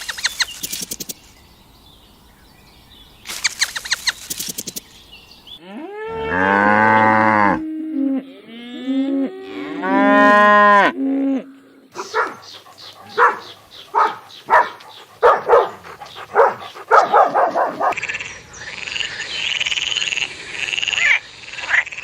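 Cattle mooing: two long, deep moos about six and ten seconds in, with shorter lowing calls between them. Before and after the moos come runs of short, sharp animal calls.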